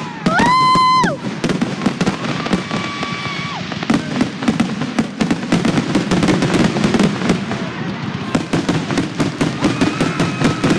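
Fireworks going off: a loud whistling shot that glides up, holds and drops near the start, then a long stretch of dense, rapid crackling and popping.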